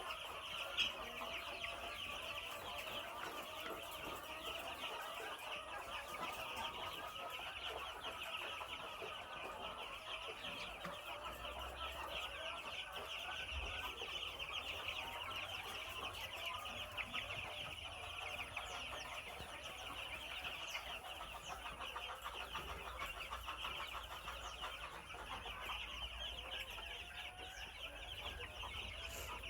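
A flock of 12-day-old broiler chicks peeping continuously, many high chirps overlapping. A single sharp knock sounds about a second in.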